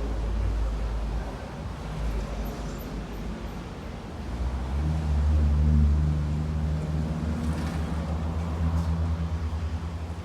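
A motor vehicle's engine running close by over a low rumble, swelling to its loudest about halfway through and then easing off.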